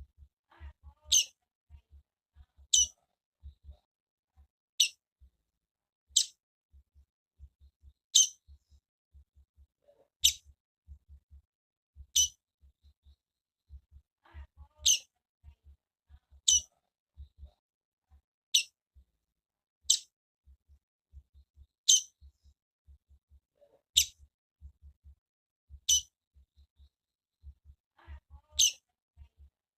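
Female double-collared seedeater (coleiro) calling: a single short, high chirp repeated about every two seconds, around fifteen times.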